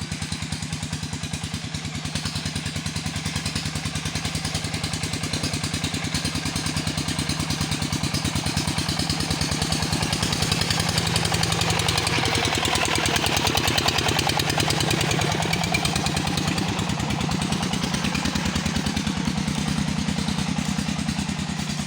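Motorcycle engine running steadily under load while climbing a steep incline, growing a little louder about halfway through.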